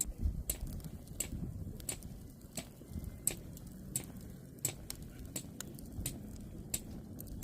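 Wood campfire crackling, with sharp irregular pops, roughly one or two a second, over a steady low noise.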